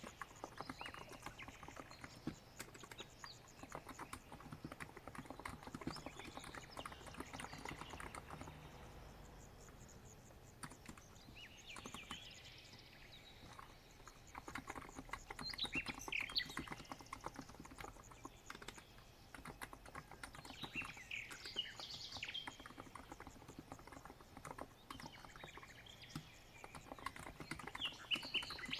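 Continuous typing on a COX Empress electro-capacitive keyboard: a steady stream of soft key presses. Birds chirp in the background now and then, in short high calls.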